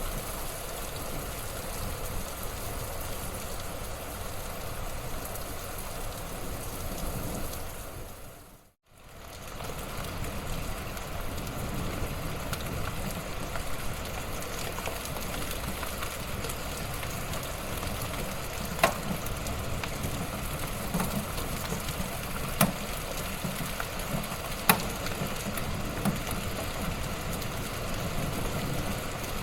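Wood fire crackling in a fireplace: a steady hiss and rumble with scattered sharp pops, a few of them louder. The sound fades almost to nothing for a moment about nine seconds in, then comes back.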